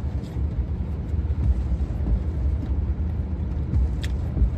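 Low, steady rumble inside a vehicle cabin with the engine idling, and faint chewing sounds; a short click about four seconds in.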